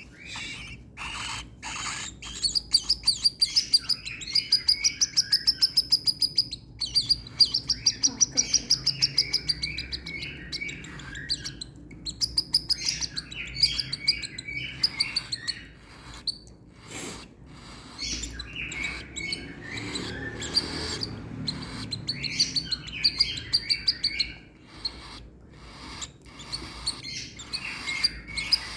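Baby cockatiel giving its rapid, repeated food-begging chirps while being hand-fed, in several runs of a few seconds each with short pauses between.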